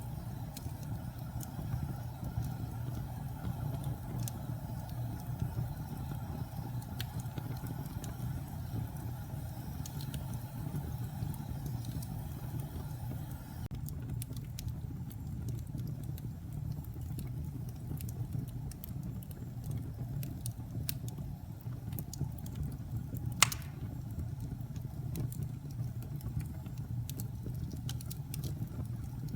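Wood fire burning in a fireplace: scattered small crackles and pops over a steady low rumble, with one sharp, louder pop about 23 seconds in.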